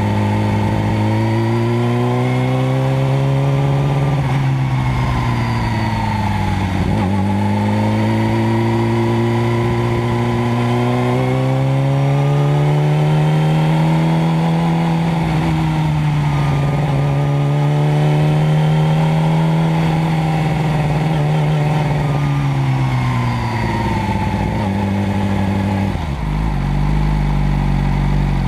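Motorcycle engine running under load, its pitch climbing, dropping sharply once, climbing again and holding, then falling away near the end to a steady idle.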